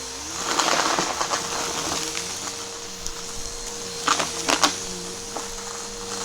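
Vacuum cleaner running with a steady motor whine, picking up crunchy debris, with a few sharp cracks about four seconds in.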